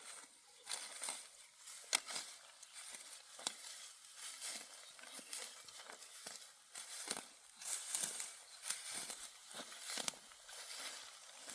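Dry barley stalks crackling and rustling in irregular handfuls as they are pulled up by hand, with sharper snaps here and there.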